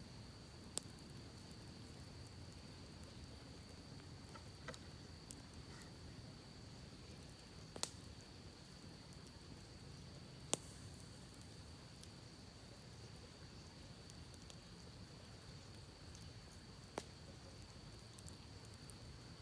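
Campfire crackling faintly, with scattered sharp pops and snaps from the burning wood, a few of them louder, over a steady low rush of creek water and a thin steady high tone.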